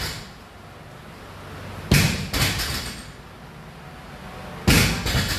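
A plate-loaded barbell landing on the floor again and again: a heavy thud followed by a second, lighter knock about half a second later, twice, about three seconds apart.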